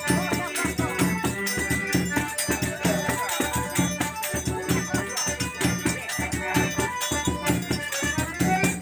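Forró music with a zabumba bass drum beating a steady rhythm, rattling percussion on top and sustained melodic notes over it.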